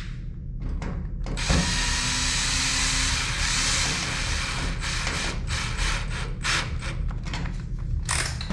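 Cordless drill-driver running for about three seconds, then several short bursts, driving in a screw to fasten the dryer's electrical wiring.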